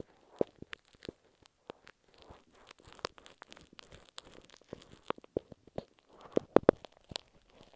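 A glue stick tapping and scraping on masking tape over an earphone microphone: close, crackly taps and scratches at an irregular pace, with a cluster of louder taps about six and a half seconds in.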